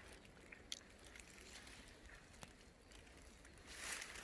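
Near silence with faint outdoor background, a few light clicks, and a soft rustling hiss building near the end.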